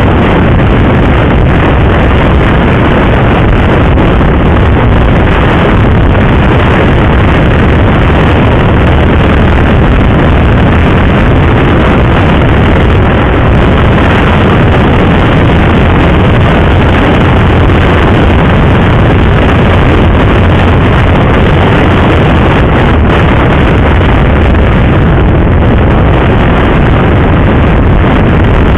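Motorcycle riding at speed, heard as a steady, loud rush of wind over the rider's microphone with the engine and road noise running underneath.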